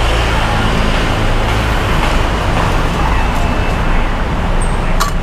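Steady, loud road traffic noise on a busy city street, with a sharp click near the end.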